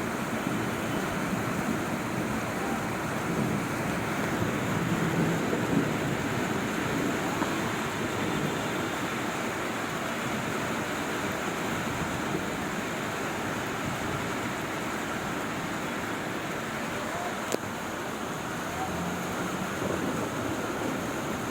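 Heavy rain falling steadily, a continuous hiss, with one sharp click near the end.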